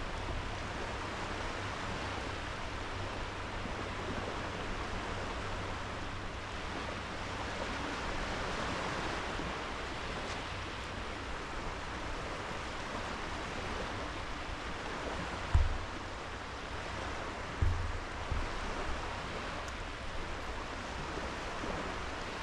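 Small sea waves washing onto a sandy beach: a steady surf hiss that swells and eases. Two brief low thumps come about two-thirds of the way through.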